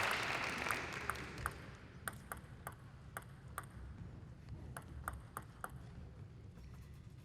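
Applause dying away, then a table tennis ball clicking sharply against table, bat or floor: a dozen or so short pings in two uneven clusters.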